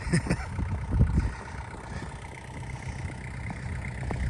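Tractor engine running steadily while it drives a snowblower through deep snow, heard from inside the tractor's cab.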